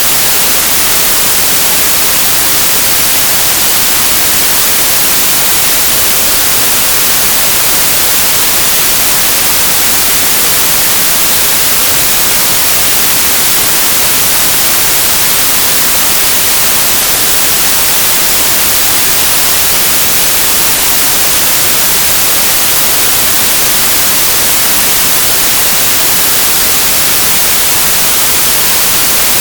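Synthesized white noise: a steady, even hiss with a flat spectrum, bright and high-heavy, unchanging throughout.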